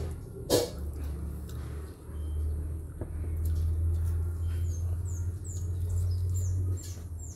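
A small bird chirping: short, high chirps that fall in pitch, repeated about twice a second from about halfway through. Beneath them runs a steady low rumble, and there is one sharp knock shortly after the start.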